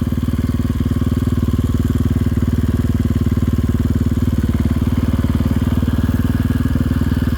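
GasGas ES500 single-cylinder four-stroke enduro engine idling steadily with an even, rapid exhaust pulse. The sound cuts off abruptly at the end.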